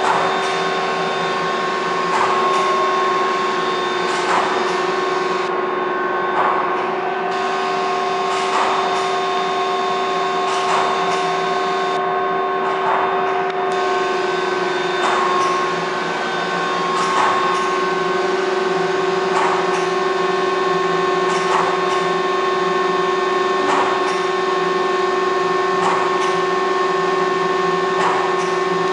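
CNC lathe running: a steady mechanical whine made of several held tones, with a faint tick about every two seconds.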